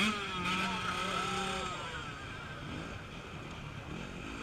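Off-road race motorcycle engine revving up sharply, then held at steady revs for about two seconds before fading into a rougher engine mix.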